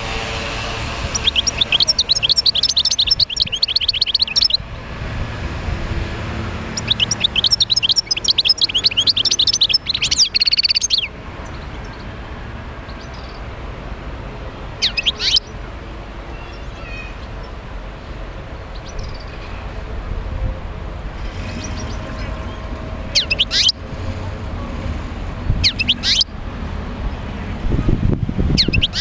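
European goldfinch song: two long phrases of rapid, high twittering, then a few single sharp down-sweeping calls several seconds apart.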